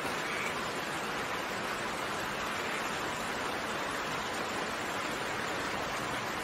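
Steady rain falling, a continuous even hiss with no single drops standing out.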